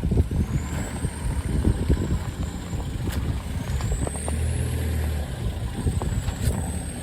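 Off-road vehicle engine working slowly through a deep-rutted, muddy trail section, its low drone swelling for a second or so midway, with clunks and knocks from the vehicle over the ruts. A thin high whine rises and falls twice.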